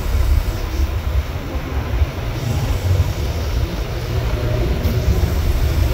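Steady low rumble of a moving vehicle and road traffic, with no distinct pitched engine note or sharp knocks.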